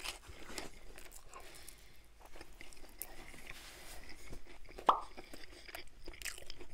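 Close-up chewing of a soup-dipped bite of toasted grilled bacon-and-cheese sandwich: soft crunches and small mouth clicks, with one sharper, louder click about five seconds in.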